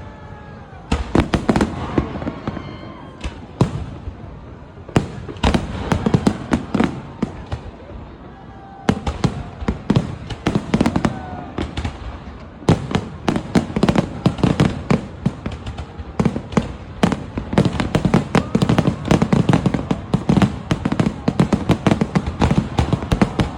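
Fireworks display: rapid volleys of sharp bangs and crackles with brief lulls, growing densest near the end.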